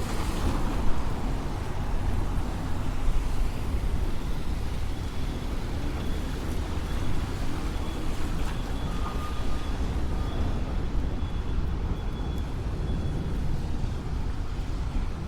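City street traffic: a steady low rumble of vehicles running along the road, with a faint high steady tone in the middle of the stretch.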